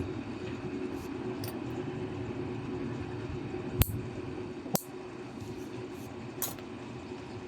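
Toenail nippers snipping through thick toenails: two sharp clicks about a second apart near the middle, then a softer one, over a steady low background hum.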